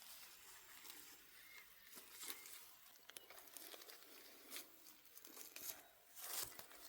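Faint, irregular rustling and crinkling, a string of short scrapes and crackles with a few louder ones about two, four and a half and six seconds in.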